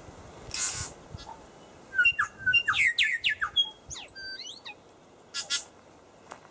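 A songbird singing: a quick, varied run of short whistled notes sliding up and down, from about two seconds in to near five seconds, with short harsh rasping notes about half a second in and again just after five seconds.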